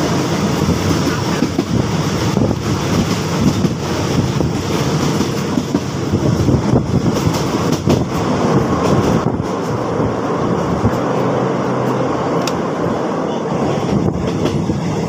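Passenger train running along the track, heard from inside a carriage: a steady rolling rumble of wheels on rail with a few scattered knocks.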